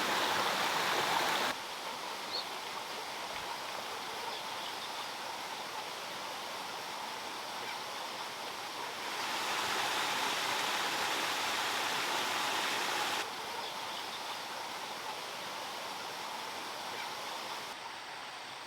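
Water from a handmade stone waterfall flowing and splashing steadily. Its level drops suddenly about a second and a half in, rises again about halfway through, and drops once more a few seconds later.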